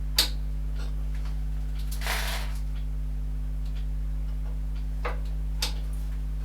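Metal tools and machine parts being handled: one sharp click just after the start, a short rustle around two seconds in, and a couple of lighter clicks later, over a steady low hum.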